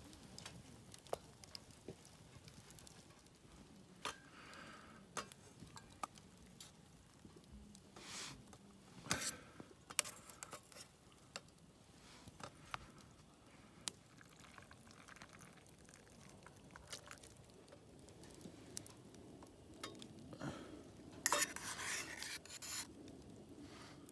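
Cooking sounds: scattered clinks and scrapes of utensils against pots and dishes, with a louder cluster of clattering near the end.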